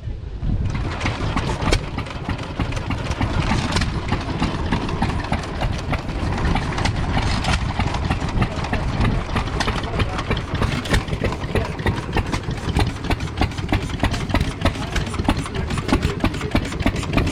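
Tractor engine idling steadily, with a fast, dense ticking.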